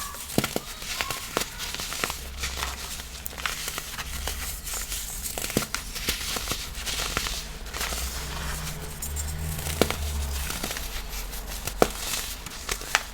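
Gym chalk being crushed and crumbled: a dry, crunchy crackling with many sharp little snaps.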